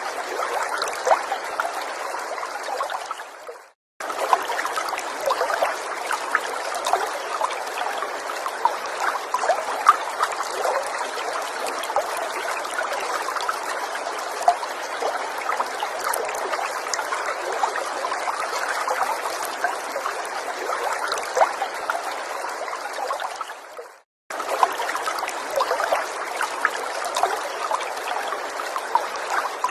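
Small forest stream trickling and babbling over stones, a steady rush of water dotted with many small splashes and drips. The sound drops out to silence for a moment twice, about four seconds in and again twenty seconds later.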